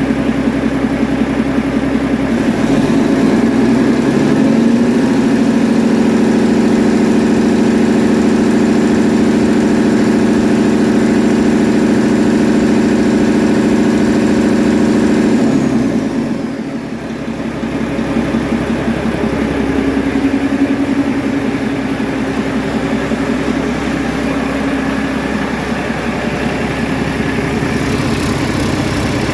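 2020 Mack MP7 11-litre inline-six diesel engine running on a test stand: it idles, is run up smoothly to a higher steady speed and held there for about ten seconds, then drops back to a steady idle. It runs evenly throughout, in excellent running order.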